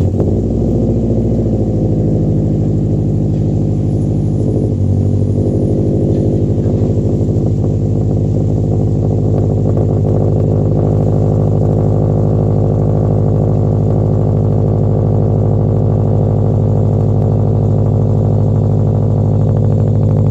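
2018 Subaru WRX STI turbocharged flat-four starting from cold through a muffler-delete exhaust: it fires at once and settles into a loud, steady cold-start high idle.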